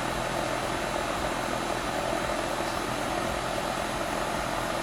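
American Standard 2.5-ton heat pump outdoor unit running: the condenser fan blowing air in a steady whoosh, with a low steady hum underneath. The fan motor is drawing about 0.4 A against its 0.7 A rating, well within spec.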